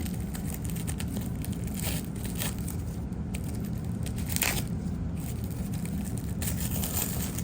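Wrapping of a half brick of firecrackers being torn and crinkled open, in scattered crackling strokes with a louder tear about four and a half seconds in.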